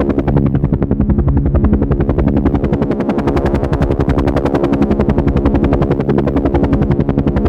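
Helicopter rotor chopping in a rapid, even pulse, with a steady pitched hum from the engine and rotors underneath.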